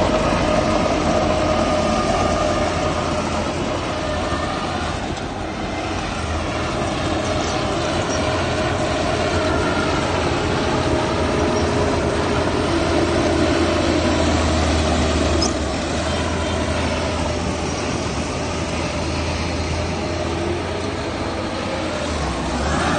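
Heavy diesel machinery running continuously with a low rumble and a steady engine tone, which shifts slightly twice.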